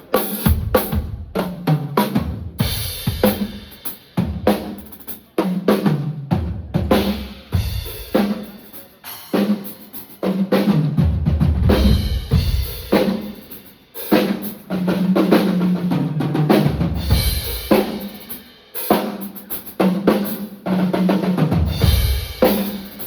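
Yamaha Absolute Maple drum kit played in a sound-check groove: bass drum, snare with rimshots, and tom fills, with Zildjian cymbals ringing over the top.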